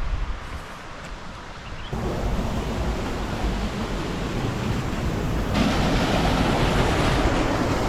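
Waterfall rushing as a steady wash of water noise, growing louder about two seconds in and again a little past halfway, with some wind on the microphone.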